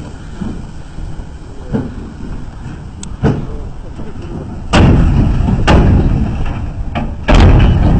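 Heavy truck driving over rough ground: a steady low engine rumble with sharp knocks and bangs from the body and load. It grows much louder about five seconds in, with heavy thuds near the end.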